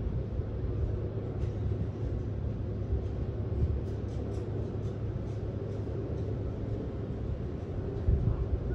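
Steady low rumble of the cruise ship Mein Schiff 3 under way, its engines and hull droning with a faint hiss of wind and sea.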